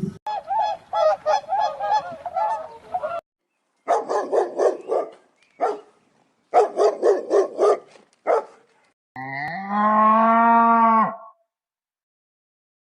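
Farm birds calling in quick runs of short honking calls, several bouts of them, then one long, steady call lasting about two seconds near the end.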